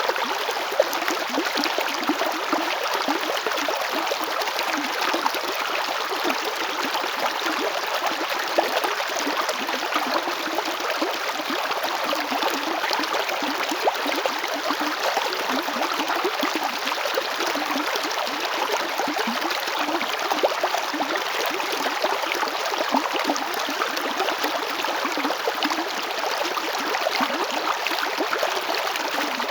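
Chalchaní River flowing: a steady, even rush of water with a dense texture of small splashes, unchanging throughout.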